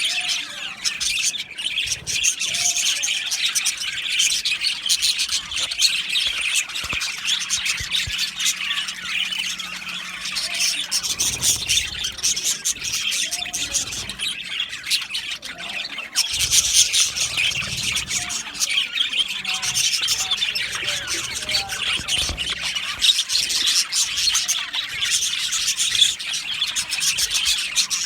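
A flock of budgerigars chattering and chirping, many birds calling at once in a dense, continuous high-pitched twitter.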